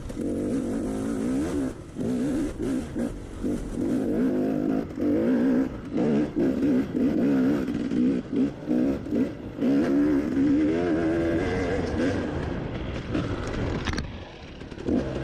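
Dirt bike engine revving up and down over and over as the throttle is worked, easing off near the end.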